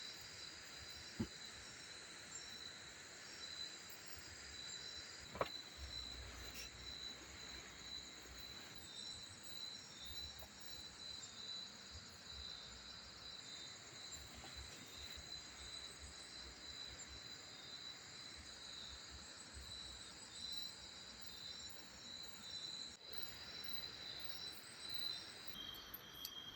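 Steady, high-pitched chorus of forest insects trilling, with two sharp clicks in the first few seconds.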